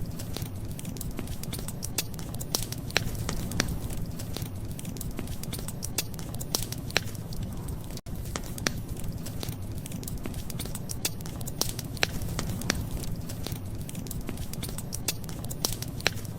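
Wood fire crackling: sharp irregular pops and snaps over a steady low rumble, with a momentary dropout about halfway through.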